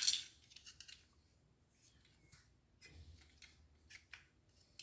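Sharp click, then scattered faint clicks and scrapes, as a copier's drive gear assembly is worked loose by hand.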